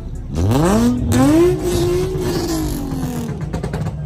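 A car engine revving hard: its pitch climbs quickly, holds near the top for about two seconds, then falls away as the throttle closes.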